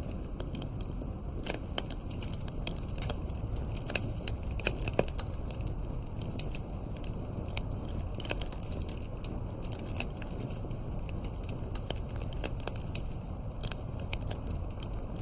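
Campfire burning, with a steady low rumble of flames and irregular sharp crackles and pops of burning wood.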